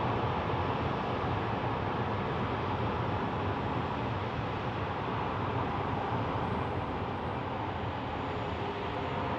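Steady noise of jet aircraft engines at an airport, an even rumble and rush with no sharp events.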